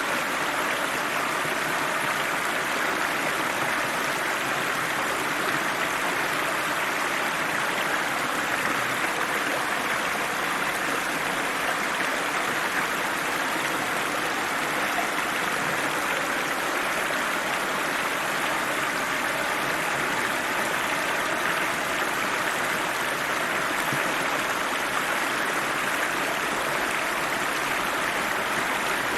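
Cold river water rushing and burbling over rocks, a steady even flow of water noise.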